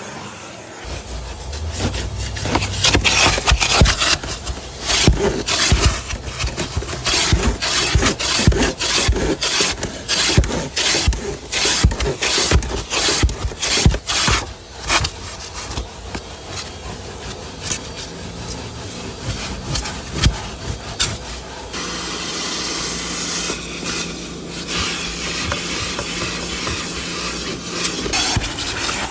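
Car-wash vacuum cleaning a car's interior: the hose nozzle scraping and rubbing over the surfaces, with many irregular sharp clicks over a steady hum. About two-thirds of the way through the clicking thins out and it settles into a steadier hiss.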